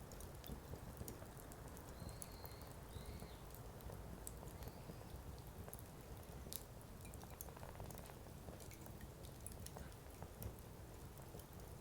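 Firewood burning in a Coleman Fire Disc: faint, irregular crackles and pops over a steady low rumble of the flames. A few faint high squeaks come about two to three seconds in.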